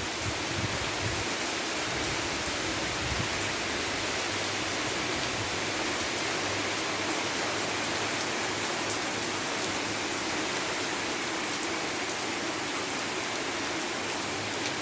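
Steady rain falling, an even hiss, with a few low bumps in the first few seconds.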